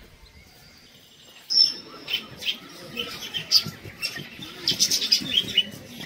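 Birds chirping: after a quiet first second and a half, a busy run of short, high calls, loudest about 1.5 s in.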